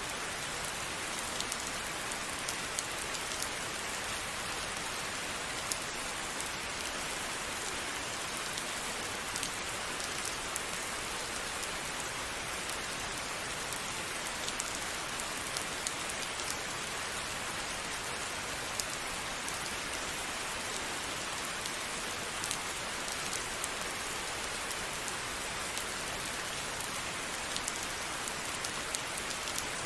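Steady rain falling, a continuous even hiss with many individual drops ticking sharply on a surface throughout.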